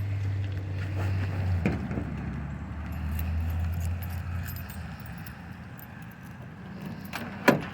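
Rain falling with a low vehicle engine hum that fades out and back in during the first half, a few light clicks, and one sharp click near the end.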